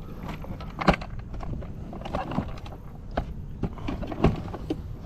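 Irregular knocks and taps in a kayak as a freshly landed crappie is handled, the fish and gear bumping against the hull, over a low steady rumble.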